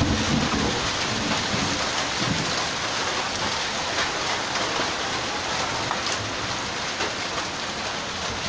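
Heavy hailstorm: a dense, even hiss of rain and hail hitting the ground and roofs, with a few sharp ticks of stones landing. A low rumble runs under it in the first couple of seconds.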